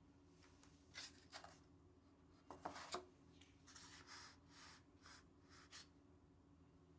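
A handful of short, soft rustles and scrapes over faint room tone, the loudest just before three seconds in.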